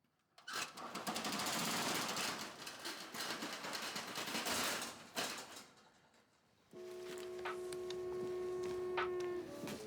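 A dense, rapid crackling rattle for about five seconds, fading out, then music with sustained ringing tones begins about two-thirds of the way in.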